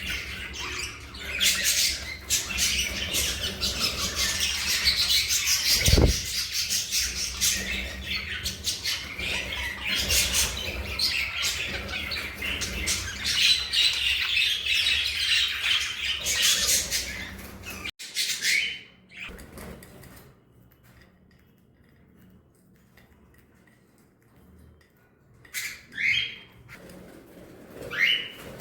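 A flock of budgerigars chattering and squawking nonstop, with a dull thump about six seconds in. About two-thirds of the way through the chatter cuts off suddenly, leaving near quiet with a few short rising calls.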